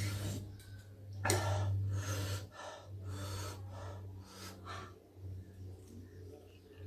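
A person breathing sharply in and out through the mouth in a series of short gasps, a reaction to the chili heat of very spicy noodles.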